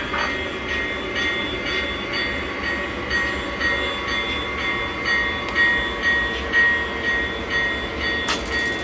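Model train running along the layout track: a steady rumble with faint, evenly spaced clicks. Near the end a sudden crackle breaks in with a fast high buzz.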